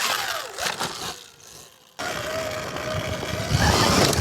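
Sur-Ron Ultra Bee electric dirt bike's motor whining over a rushing hiss. The whine falls away in the first second and the sound dips, then after a sudden cut about halfway a steady whine comes back and climbs near the end.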